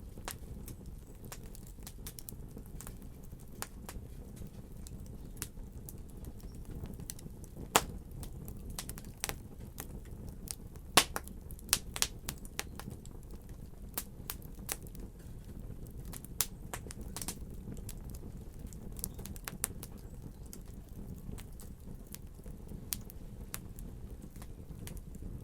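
Wood fire crackling over a steady low rumble, with irregular sharp pops, a few much louder than the rest.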